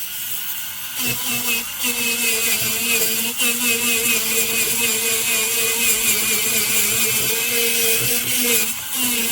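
Slow-speed dental handpiece spinning a polishing brush with pumice on an amalgam filling: a steady motor whine with a wavering high tone and hiss. It starts about a second in and cuts out briefly near the end before running again.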